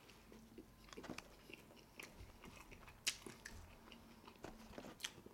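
Close-miked chewing of a mouthful of Big Mac: faint wet mouth smacks and soft clicks, with a few sharper clicks spread through.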